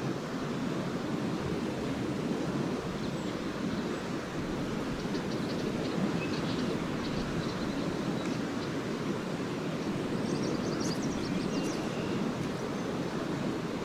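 Lake Erie waves washing steadily onto a sand beach, with wind. Faint high twittering of swallows comes through in the middle and again near the end.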